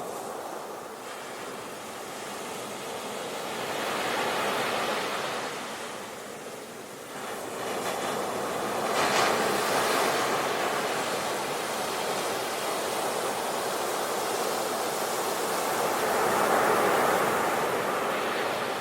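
Sea waves breaking on the shore: a steady wash of surf that swells and falls back, with three louder surges about four, nine and seventeen seconds in.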